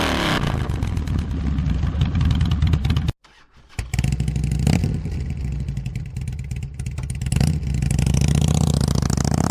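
2005 Harley-Davidson Heritage Softail Classic V-twin with a Screamin' Eagle exhaust, running and being revved, louder near the end. The sound cuts out abruptly for about half a second a third of the way in.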